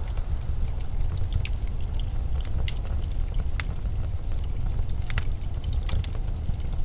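Steady, deep winter wind rumble with many scattered, irregular sharp crackles and ticks over it.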